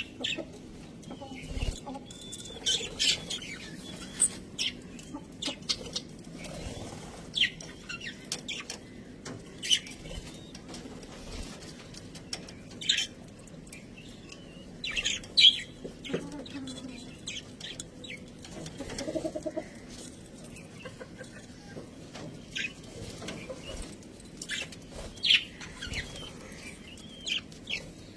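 Budgerigars chirping in short, scattered calls, with a softer low chatter for a moment about two-thirds of the way through.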